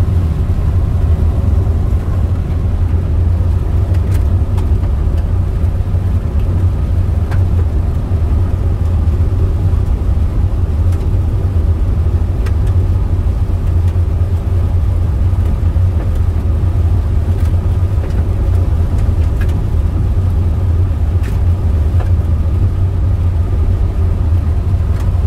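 Steady road and engine noise inside a moving car's cabin: a heavy, even low rumble with a few faint ticks here and there.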